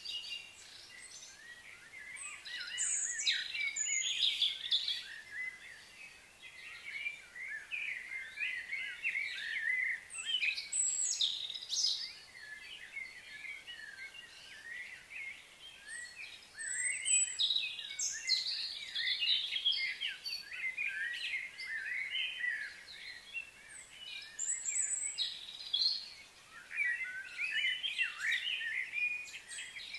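Small birds chirping and twittering in busy bouts of a few seconds, with quieter gaps between them.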